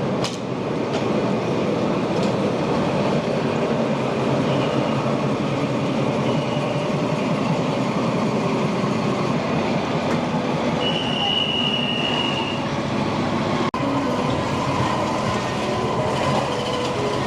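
Passenger train running on rails with a steady rumble and rattle of the carriages. A high, thin squeal, likely from the wheels, is held for about two seconds partway through, with a fainter one earlier.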